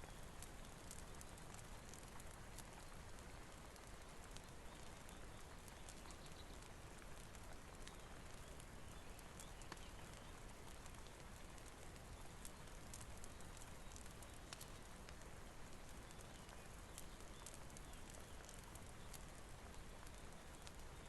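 Faint, steady rain hiss with sparse, irregular crackles and pops from a wood fire.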